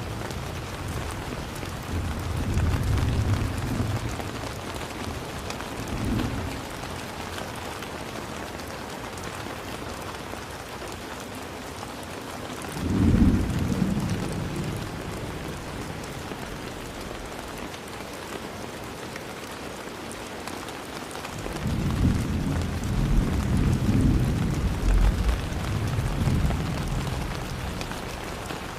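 Steady heavy rain with rolls of thunder: a rumble a couple of seconds in, a sharper, louder crack about halfway through, and a long rolling rumble near the end.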